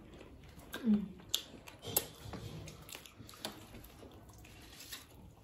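Close-up eating sounds of sauce-coated chicken pieces bitten off the bone and chewed: scattered wet mouth clicks and smacks, with a short hum from the mouth about a second in.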